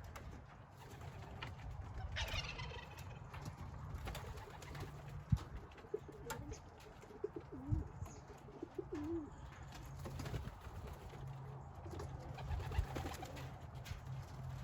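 Young racing pigeons cooing, in low wavering calls around the middle, with a few sharp knocks scattered through.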